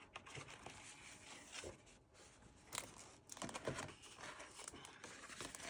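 Faint rustling and light crinkles of paper as the pages of a pad of patterned scrapbook paper are turned, in a few short scattered bursts.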